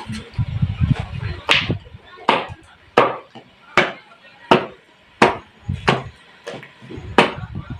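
Cooked cocoyam being pounded with a pestle in a mortar to thicken soup: about nine steady, even thuds, a little under a second apart.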